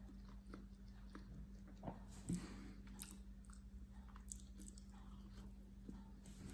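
Faint close-up chewing of vegan sushi, with soft wet mouth sounds and small clicks and a louder bite about two seconds in. A steady low hum runs underneath.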